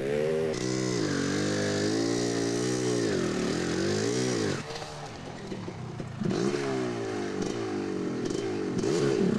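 Dirt bike engine revving up and down repeatedly, its pitch rising and falling every second or so; it drops in level about halfway through and grows louder again near the end.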